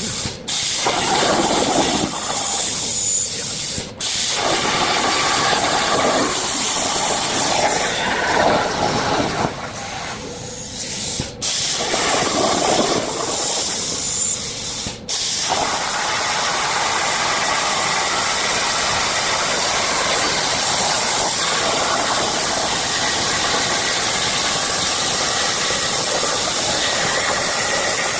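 CNC plasma cutter's arc hissing loudly as it cuts steel parts, stopping for a split second about four times in the first fifteen seconds, then running on steadily.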